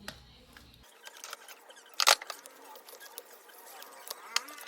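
Irregular clicks and light knocks of a knife and whetstone being handled during hand sharpening, with one loud knock about two seconds in and a sharper tap near the end.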